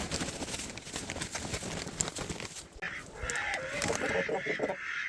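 Poultry calling in the coop: a drawn-out, pitched call starts about three seconds in, after light rustling and clicking.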